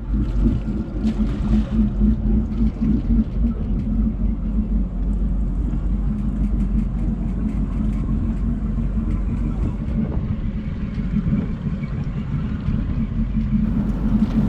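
Motorboat's inboard engines running steadily: a continuous low rumble.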